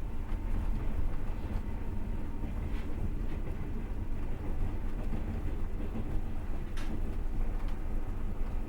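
Passenger train running, heard from inside the carriage: a steady low rumble of wheels on rails, with a few faint clicks.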